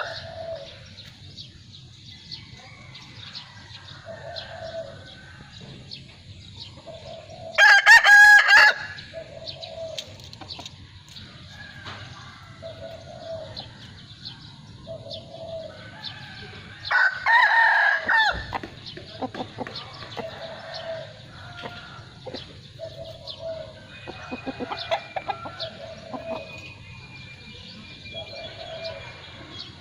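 Rooster crowing, two loud crows about 8 and 17 seconds in, with short, softer chicken calls repeating in between.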